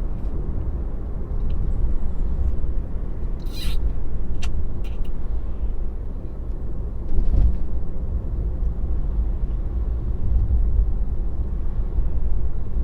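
Low, steady tyre and road rumble of a Tesla driving along, with a few short clicks and one brief hissing burst about three and a half seconds in.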